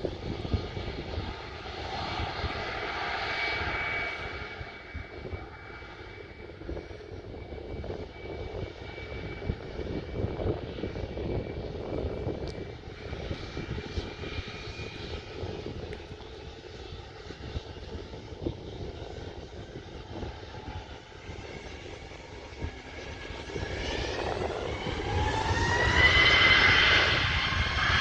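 Jet airliner engines whining steadily with a low rumble, then rising in pitch and getting louder over the last few seconds as they spool up.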